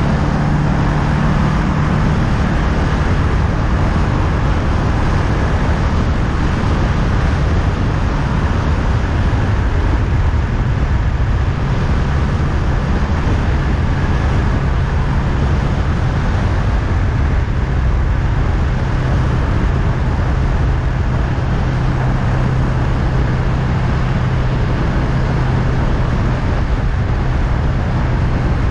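Honda Rebel 500's parallel-twin engine running steadily at cruising speed over a rush of wind and road noise. The engine note drops slightly about ten seconds in.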